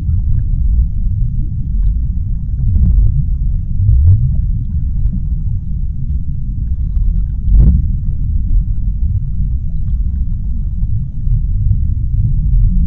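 Underwater ocean ambience: a deep, steady rumble with faint scattered clicks and pops, one sharper pop about seven and a half seconds in.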